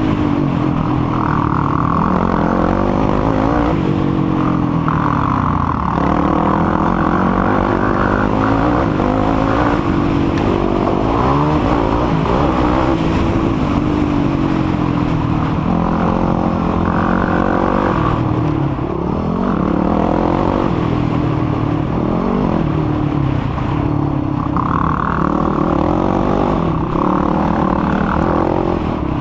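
Yamaha YFZ450R sport quad's single-cylinder four-stroke engine revving hard, its pitch rising and falling again and again as the throttle opens and closes, with rattling and clatter from the machine.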